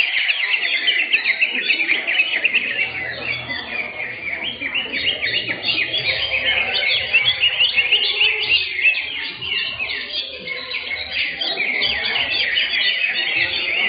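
Several greater green leafbirds (cucak hijau) singing at once, a dense, unbroken chatter of quick chirps and trills.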